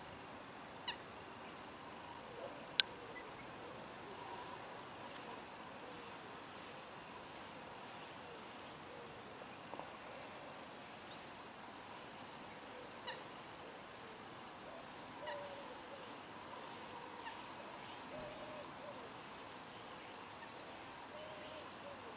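Faint, scattered soft bird calls over a quiet background, with a few sharp clicks, the loudest about three seconds in.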